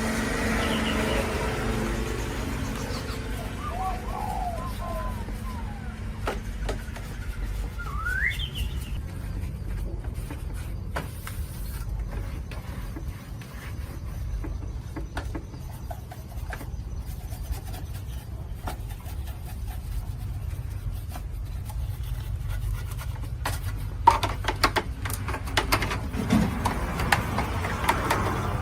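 Steady low rumble with birds chirping a few times, one call rising sharply in pitch, and scattered sharp clicks and knocks that come thicker near the end.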